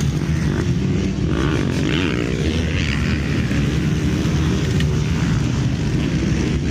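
Several motocross bikes racing. Their engines overlap and rise and fall in pitch as the throttles open and close.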